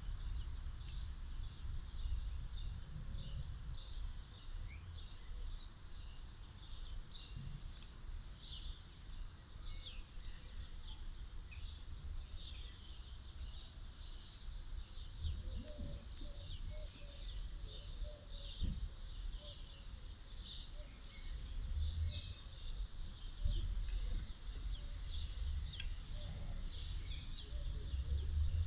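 Birds chirping busily, many short chirps overlapping, over a steady low rumble.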